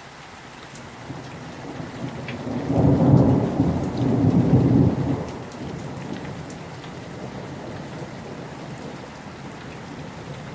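Summer thunderstorm: steady rain, with a rumble of thunder that builds about a second in, is loudest for a couple of seconds, then dies back under the rain.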